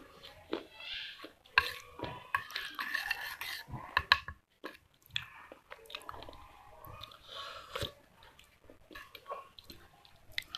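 A person chewing clay close to the microphone: irregular crunching and crackling clicks, with a few sharper crunches about one and a half and four seconds in.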